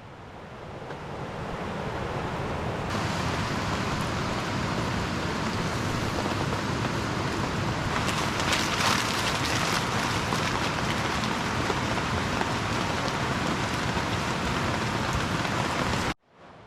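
Heavy rain falling steadily, a continuous hiss that fades in over the first couple of seconds.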